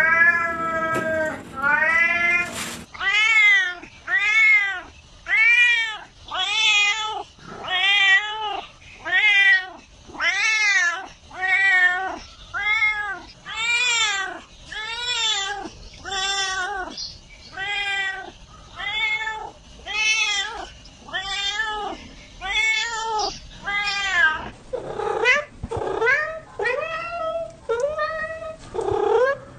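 A cat meowing over and over, about one rising-and-falling meow a second, each much like the last. Near the end the calls turn shorter and quicker.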